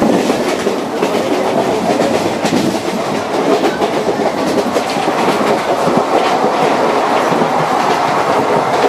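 Indian Railways sleeper coach running along the track, heard from inside the carriage: a steady loud rattling rumble with the clickety-clack of wheels over rail joints.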